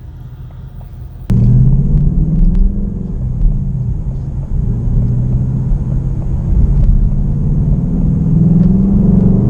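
Car engine running with a loud, steady low rumble that comes in abruptly about a second in, its pitch drifting a little up and down.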